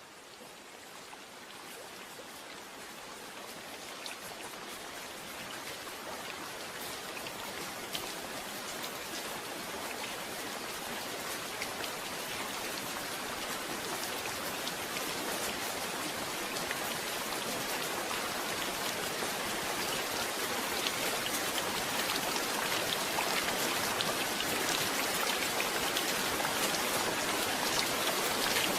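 Rain falling steadily, with many separate drops pattering on a surface, growing gradually louder.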